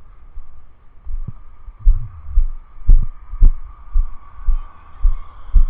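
Heavy low thuds at an even pace of about two a second, like walking footsteps jolting a body-mounted first-person camera, over a steady muffled hum.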